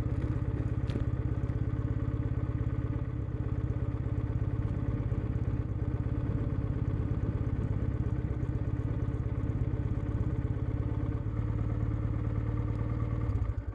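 Kawasaki W650's air-cooled parallel-twin engine idling steadily at a constant beat through a POSH W1 full exhaust. It cuts out abruptly near the end.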